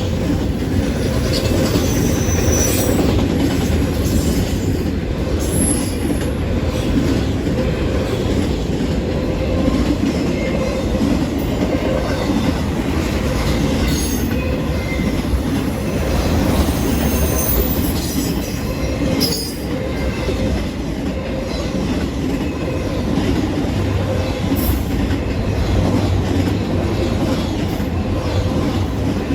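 Autorack freight train rolling past at speed: a loud, steady rumble of wheels on rail, with brief high squeals a few times.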